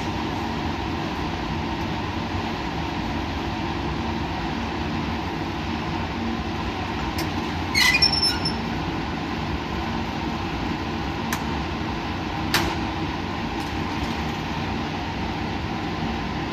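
Steady mechanical drone and rushing noise of running lab equipment, with a steady hum. About eight seconds in there is a brief cluster of light ringing clinks, and a single sharp click follows a few seconds later.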